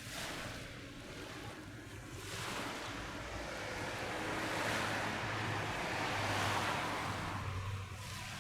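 Rush of surf that builds over a few seconds and then falls away, with a low steady hum underneath.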